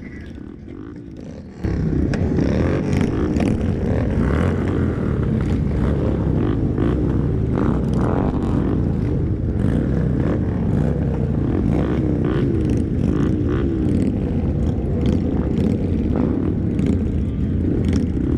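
Motorcycle engines running on the move, their pitch rising and falling. The sound jumps abruptly louder about a second and a half in.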